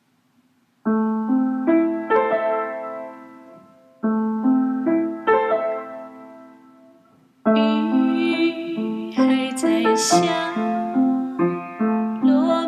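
Piano playing a slow, gentle introduction. Two short phrases of rising notes each ring out and fade away, then fuller, continuous playing begins about halfway through.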